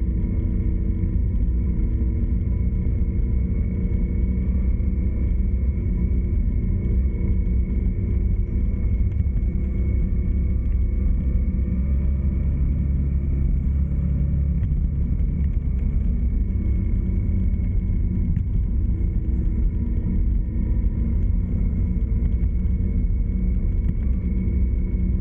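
Steady low rumble of a road vehicle under way, with engine and road noise and a few faint steady tones.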